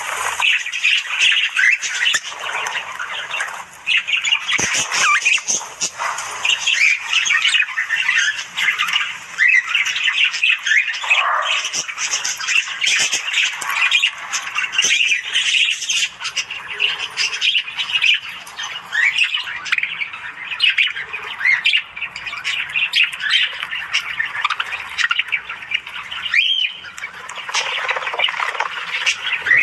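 Several budgerigars chattering and squawking together: a dense, unbroken stream of short warbling and chirping notes that glide up and down in pitch.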